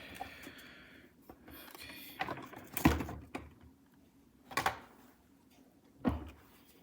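Clear plastic clamshell packaging of a model locomotive being handled and opened: the plastic rubs and slides, then clicks or knocks sharply three times, the loudest about three seconds in.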